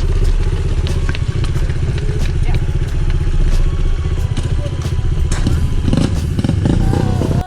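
Small pit bike engine running close by with a steady, rapid putter. A few knocks and clatter join in during the last couple of seconds.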